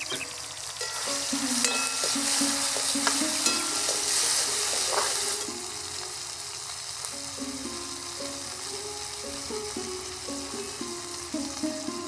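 Chopped tomatoes and green chillies frying in oil in a kadai: a loud sizzling hiss from about a second in until about halfway, then a softer sizzle, with a few light clicks. Background music plays underneath.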